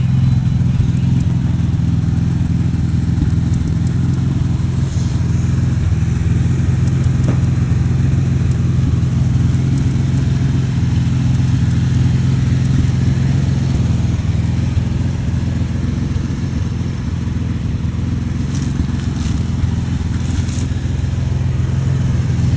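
Ford Ranger's 4.0-litre V6 engine running at a steady, low, even note with no revving.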